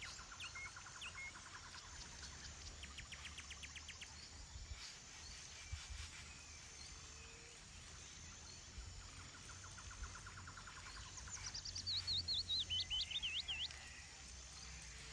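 Forest birds calling: a few short, rapid trills, then about eleven seconds in a louder call that slides down in pitch and wavers up and down for two or three seconds. A low wind rumble runs underneath.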